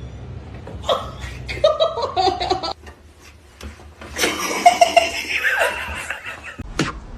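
A person laughing in two bursts, the first about a second in and a louder one about four seconds in.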